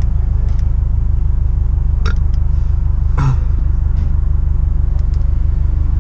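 Car engine idling steadily with a deep, evenly pulsing rumble. Two brief short sounds break in about two and three seconds in.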